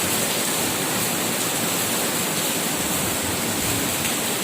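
Heavy rain pouring down in a strong rainstorm, a steady dense hiss with no let-up.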